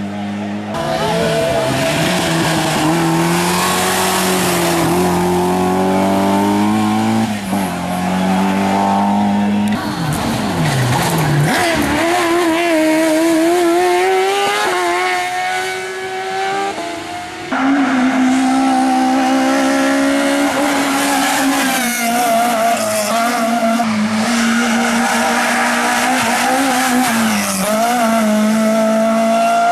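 Racing car engines at high revs, the pitch climbing and dropping back in steps through gear changes. The sound changes abruptly about ten and eighteen seconds in, as it cuts to another car or another spot on the course.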